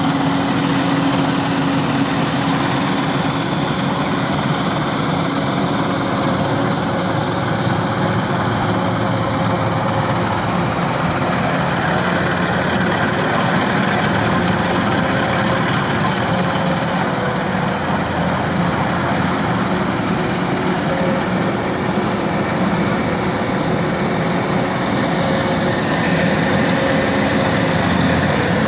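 An engine running steadily at constant speed, with a continuous hum and mechanical clatter that does not rise or fall.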